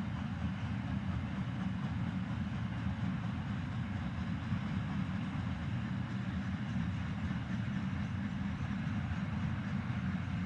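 Freight train rolling past, a steady low rumble of wheels on the rails.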